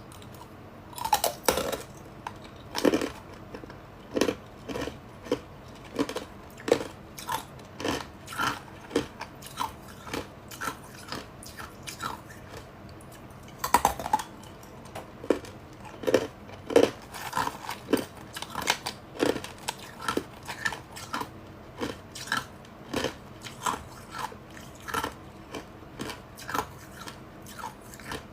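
Ice being bitten and chewed close to the microphone: a run of sharp, crisp crunches, about two a second, with louder bites about a second in, near three seconds and again around the middle.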